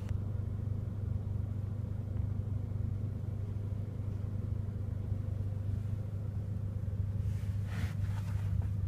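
Steady low rumble of a car engine idling, heard from inside the cabin of a Mercedes-AMG CLA45, with a brief rustle of movement about seven and a half seconds in.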